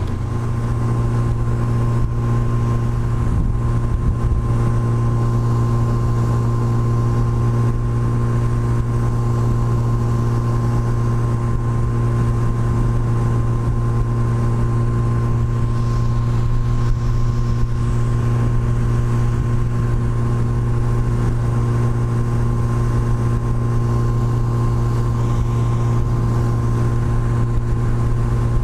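Yamaha FJR1300 motorcycle's inline-four engine running steadily at cruising speed on the highway, with wind and road noise. The engine note steps up slightly right at the start, then holds an even drone.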